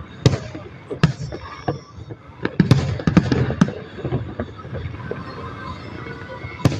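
Fireworks display going off: sharp bangs of bursting shells at irregular intervals, with a quick run of bangs and crackles about three seconds in.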